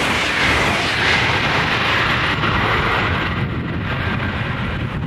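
High-speed train passing at speed: a loud rushing of air and wheels on rail. Its hiss starts to fade about three seconds in as the train draws away.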